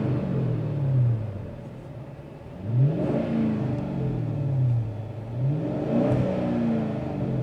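Chrysler 300C's 5.7 Hemi V8 exhaust, blipped twice. Each time the revs climb sharply, then fall back more slowly toward idle.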